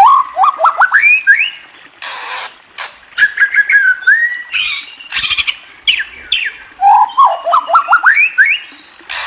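A murai bird singing. Three phrases of quick whistled notes, two of them climbing steadily in pitch, with short harsh rasping notes in between.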